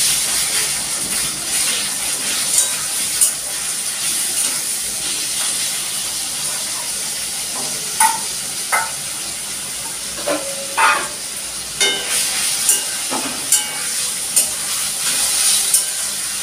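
Small pieces of chicken frying in hot oil with onions in a steel wok: a steady, loud sizzle. Sharp metal clinks of a spoon against the steel bowl and wok are scattered through it as the chicken is stirred.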